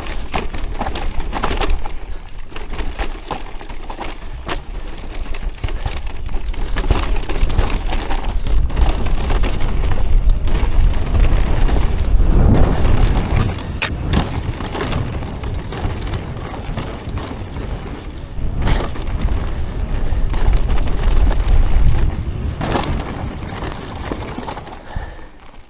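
Mountain bike ride over rough ground: wind buffeting the microphone in a heavy rumble, with rattling and frequent knocks from the tyres and frame hitting bumps.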